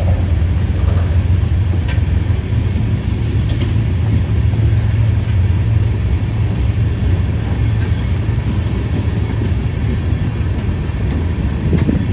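Freight train's diesel locomotives running by with a steady deep rumble, which cuts off suddenly at the very end.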